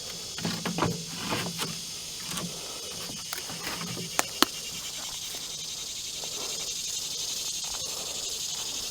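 Steady high-pitched outdoor hiss with a few soft knocks in the first couple of seconds and two sharp clicks about four seconds in.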